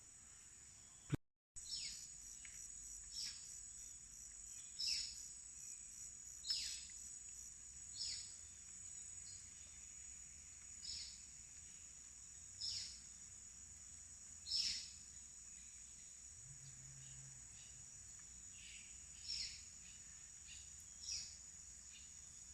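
Forest insects keep up a steady high-pitched buzz. Over it a bird repeats a short downward-sliding call every one to two seconds. The sound cuts out briefly about a second in.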